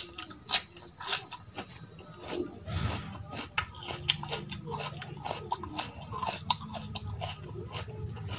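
Close-miked chewing of a handful of dal and rice, with many short sharp mouth clicks. A low steady hum joins it about three seconds in.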